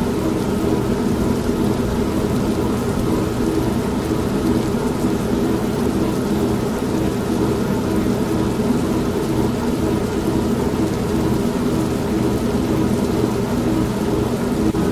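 Steady rain and low rumbling thunder mixed with an old washing machine running, its low hum pulsing evenly.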